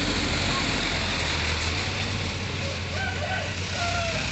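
Mitsubishi Fuso truck's diesel engine running steadily, a low rumble with a broad hiss above it.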